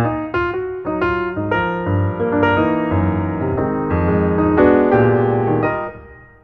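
Background piano music: notes and chords played at an unhurried pace, fading away near the end.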